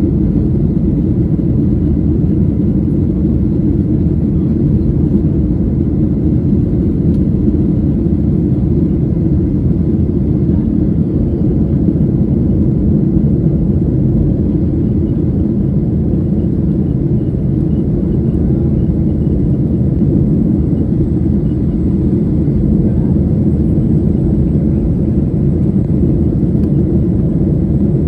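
Boeing 737-800 jet engines (CFM56-7B turbofans) running with a steady low rumble that holds an even level throughout, with faint thin steady tones above it.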